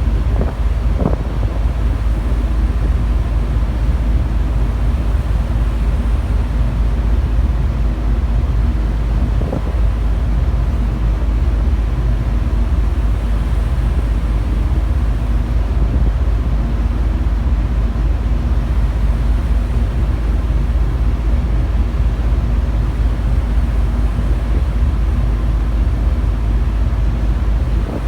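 Wind buffeting the microphone over the steady low drone of a car ferry under way, with a faint knock about a second in and another near the middle.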